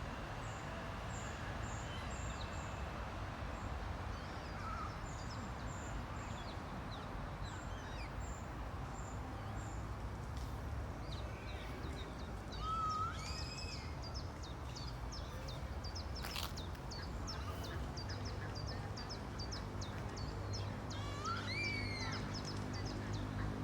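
Ducks and ducklings calling: many short, high peeps, with a louder rising call about halfway and another near the end, over a steady low rumble.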